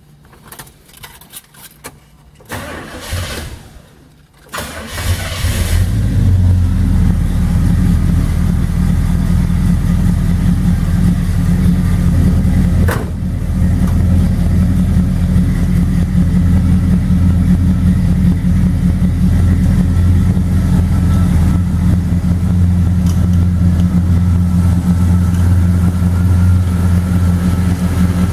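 Oldsmobile 455 cubic-inch V8 cranking briefly and catching about five seconds in, then idling steadily.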